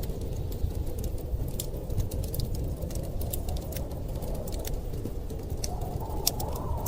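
Fireplace crackling with many scattered sharp pops over a steady low rumble of blizzard wind; a higher moan of wind swells near the end.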